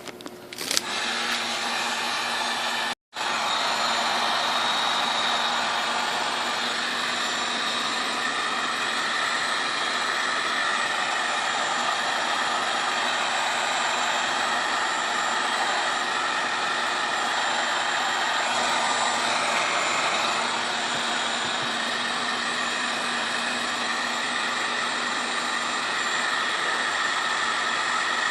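Heat gun running steadily, a constant airy blowing with a faint hum, with a brief dropout about three seconds in. It is heating the mixer's gear housing to soften solidified old grease that locks the part in place.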